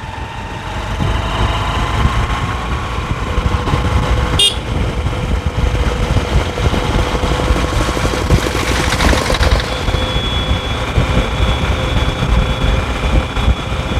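Honda Livo's 110 cc single-cylinder engine running at road speed, with heavy wind rumble on the helmet microphone. There is a sharp click about four and a half seconds in and a brief swell of rushing noise around nine seconds.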